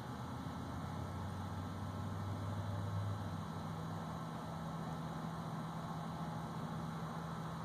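A steady low hum over background hiss, its pitch stepping up about three or four seconds in.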